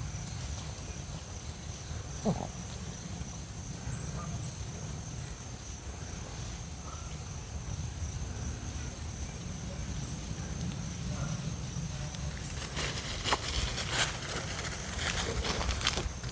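Outdoor woodland ambience: insects keep up a steady high drone over a low rumble of wind on the microphone. A short falling tone stands out about two seconds in, and a few clicks and knocks come near the end.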